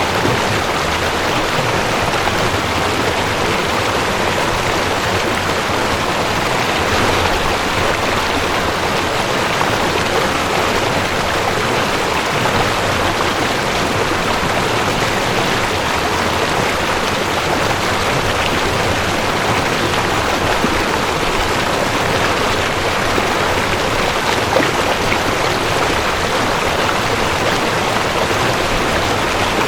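Mountain stream rushing over rocks: a steady, dense water roar.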